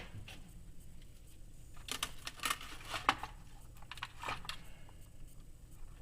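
A few light clicks and knocks from small parts being handled, spaced irregularly: about two seconds in, twice more within the next second, and once more about four seconds in.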